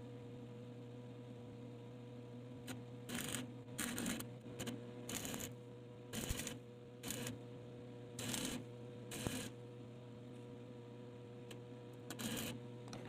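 A steady electric hum, with irregular bursts of metal parts scraping and clinking from about three to nine seconds in and again near the end.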